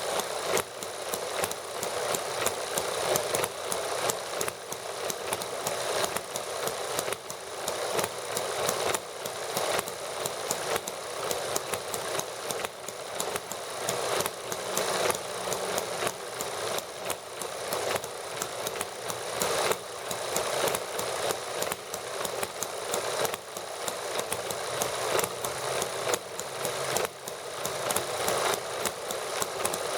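Small model gasoline engines running together, a steady fast clatter of firing strokes with irregular sharp clicks.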